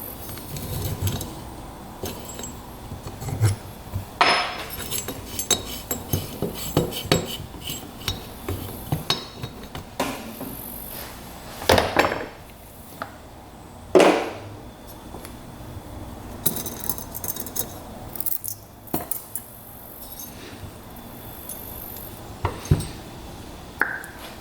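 Hand tools and small steel valve parts clinking and knocking on a motorcycle cylinder head as a valve is taken out. Scattered sharp clicks, with a few louder knocks spread through.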